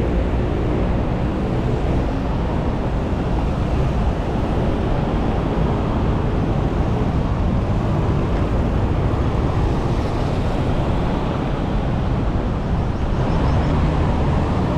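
City street traffic: a steady rumble of cars and motorbikes. An engine hum comes up near the end.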